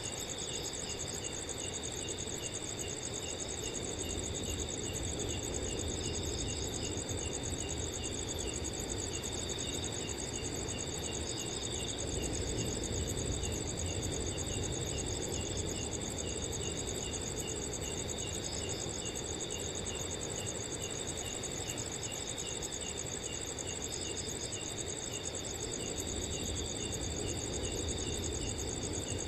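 Several crickets chirping together: a steady high trill, one cricket chirping regularly at about two chirps a second, and short bursts of chirps every few seconds. Underneath is a low, even rush of wind.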